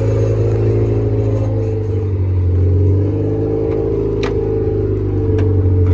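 Honda CRX four-cylinder engine running steadily at a loud, even idle, with no exhaust system fitted yet. A couple of sharp clicks come about four and five seconds in as the car's door is opened.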